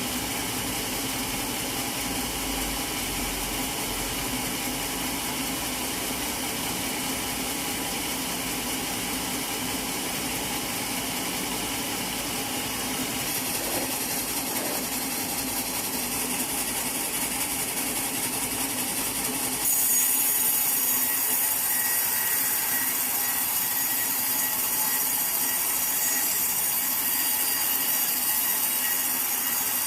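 Sawmill saw running and cutting through a teak log: a steady machine drone with sawing hiss, which abruptly gets louder and brighter about two-thirds of the way in.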